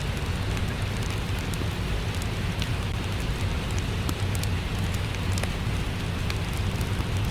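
Steady rain hiss with a low rumble, and a wood fire crackling with many small scattered pops.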